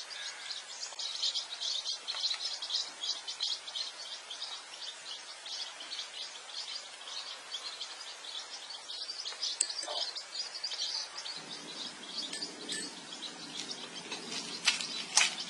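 Small birds chirping rapidly and continuously, high-pitched. About a second before the end come a few sharp clicks.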